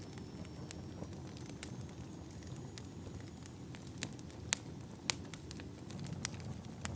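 Wood fire in a fireplace crackling: irregular sharp pops and snaps over a steady low rumble of burning logs, with a couple of louder pops about four to five seconds in.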